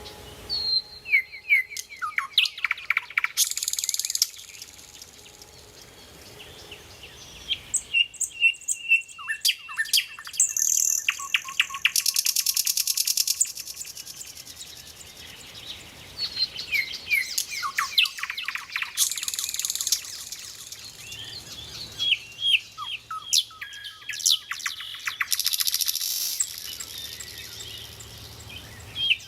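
Nightingale singing: loud, varied phrases of fast sweeping notes, rapid repeated notes and high buzzy trills, separated by short pauses.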